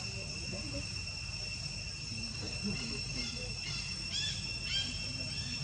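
Insects droning steadily on one high tone, with a few short high chirps about four to five seconds in, over a low rumble.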